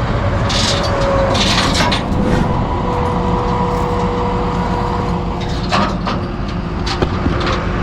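Steady rumble of freeway traffic and engines, with a faint steady hum and a few short rattling, hissing noises in the first couple of seconds.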